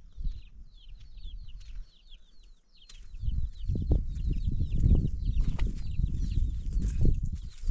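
Chickens: rapid, high, short chirping calls throughout, with a louder low rumbling noise from about three seconds in.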